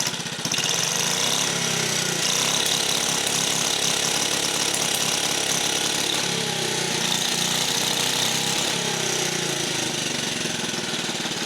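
1950 REO gasoline engine running steadily at speed with a fast, even firing pulse, getting louder about half a second in. The owner suspects the ignition is holding it back, as its breaker points are badly worn.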